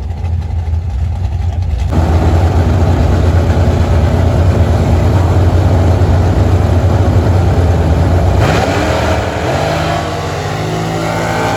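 Drag-racing car engines at the strip: a steady engine note jumps to loud full-throttle running about two seconds in and holds for several seconds, then eases. Another engine revs up, rising in pitch, near the end.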